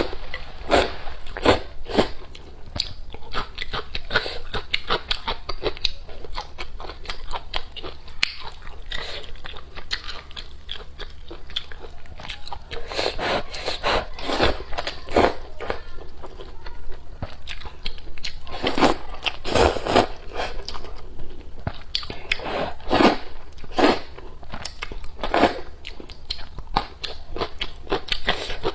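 A person eating close to the microphone, biting and chewing crunchy food, with many irregular crunches, some louder than others.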